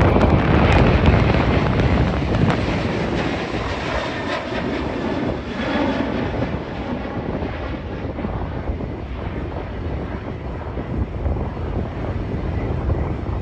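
Boeing 737 jet engines roaring past, loudest at the start and fading gradually.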